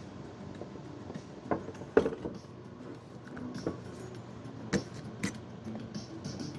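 Woodturning tools being set into a tool rack: scattered knocks and metal clinks as the tools are placed, the loudest about two seconds in.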